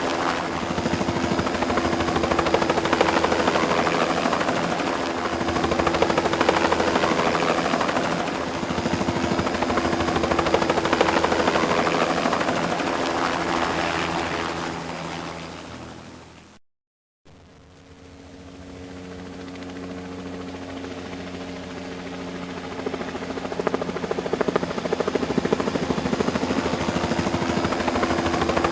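Helicopter in flight: steady rotor and engine noise with a constant hum underneath. It fades out to a brief silence just past halfway, then builds back up to full level.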